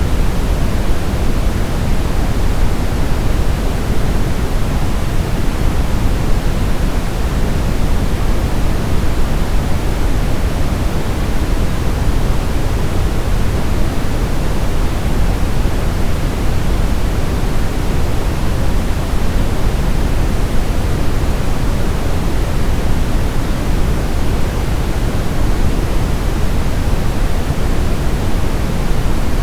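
Continuous electronic sleep-aid noise: an even, unbroken hiss, heavier in the low end than the high, with no change throughout.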